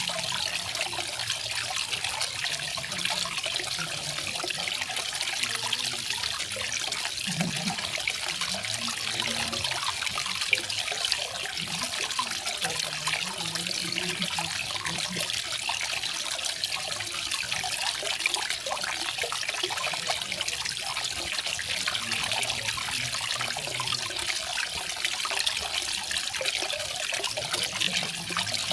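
Small garden waterfall splashing and trickling steadily, a bright even hiss of falling water.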